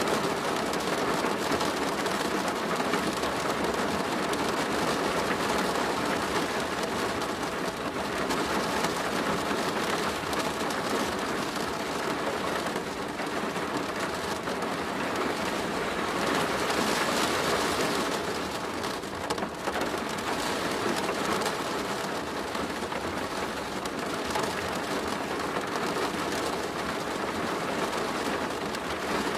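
Steady rain falling on a plastic roof: a dense, even patter of many drop hits, swelling slightly around the middle.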